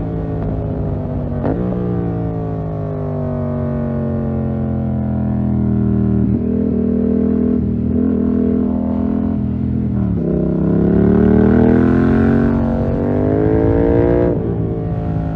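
Yamaha MT-07's 689 cc parallel-twin engine through a full SC-Project 2-1 exhaust, under way on the road. Its pitch falls slowly for several seconds, then drops sharply about ten seconds in and climbs again as it pulls hard.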